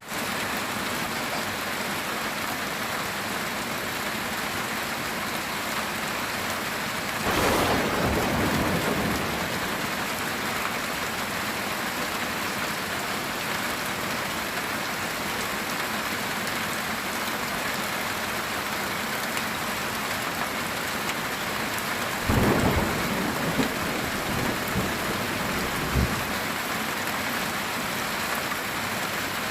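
Steady heavy rain on a metal tin roof. A clap of thunder rolls for about two seconds, about a quarter of the way in, and a second thunder rumble with a few sharp cracks comes in the last third.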